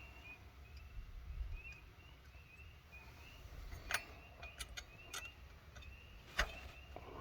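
Small sharp metal clicks as a tiny retaining clip is worked onto a carburetor's throttle kickdown linkage: several clicks, the loudest about four seconds in and again near six and a half seconds. A faint high chirp repeats about three times a second underneath.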